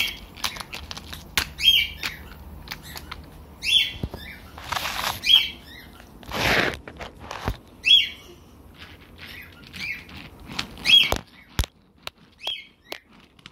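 Short high chirps, repeating every second or two, among handling clicks and a brief rustle.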